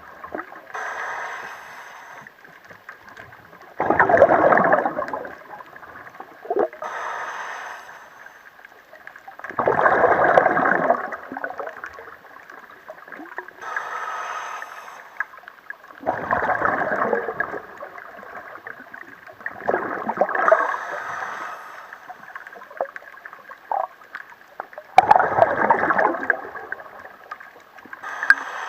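Scuba diver breathing through a regulator underwater, a slow cycle of a quieter hissing inhale followed by a louder burst of exhaled bubbles, repeating about every six seconds.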